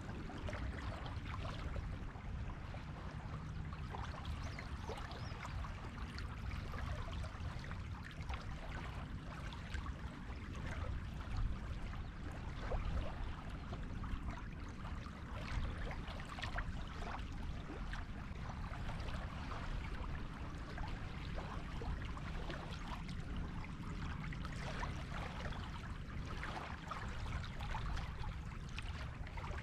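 Small waves washing and fizzing on a beach shore, a steady wash with no distinct breaking crashes, over a low rumble.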